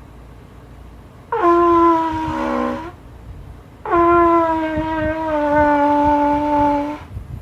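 Trumpet sounding two long held notes, the first about a second and a half, the second about three seconds and sagging slightly in pitch partway through.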